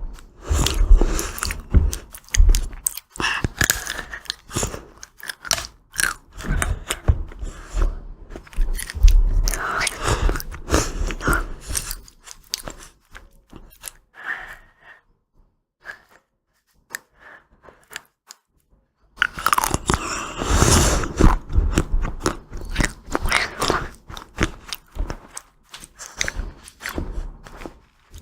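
Close-miked ASMR eating of ice cream: bites and crunchy chewing. A dense run of chewing gives way to a quiet pause with a few small clicks, then loud biting and chewing starts again about two-thirds of the way in.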